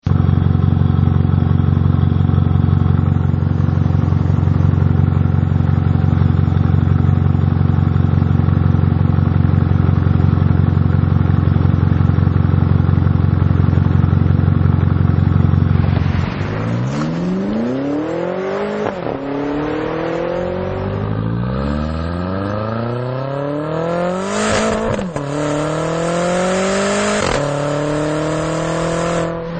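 BMW X5M/X6M twin-turbo V8 breathing through an Eisenmann aftermarket exhaust, idling steadily. About halfway through it is revved in several blips, the pitch rising and falling with each.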